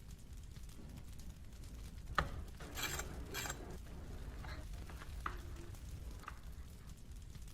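Kitchen utensil handling sounds: a sharp knock about two seconds in, two short scrapes right after, then a few light taps over a low steady rumble.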